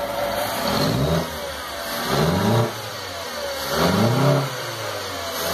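Volkswagen EA111 1.0 four-cylinder petrol engine in a Gol, freshly rebuilt and on its first run, revved briefly about three times, rising and falling back each time.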